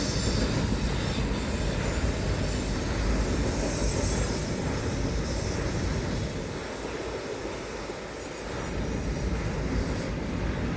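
Train rolling past with a steady low rumble of wheels on rail and a high wheel squeal that comes and goes; the rumble eases for a moment past the middle, then picks up again.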